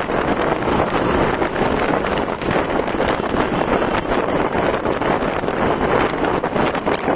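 Steady wind rushing over the microphone of a moving motorcycle, with its engine and road noise running underneath.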